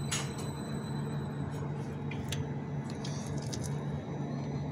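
Steady low hum of a multiple-unit train standing at the platform, with a few short clicks and rustles near the start and in the middle.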